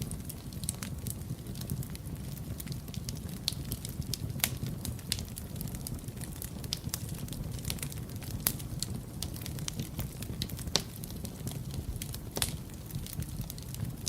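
Wood fire in a fireplace crackling, with a steady low rumble of the flames under a dense run of irregular sharp snaps and a few louder pops scattered through.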